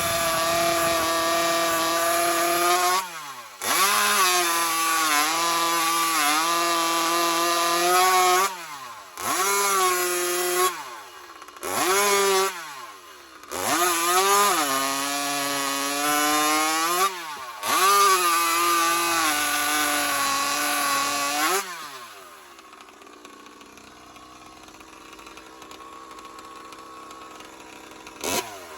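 Small two-stroke engine with a CPI Racing exhaust pipe, revved up and held high five or six times, each time dropping back in between. About 21 seconds in the revving stops and it settles to a much quieter low idle.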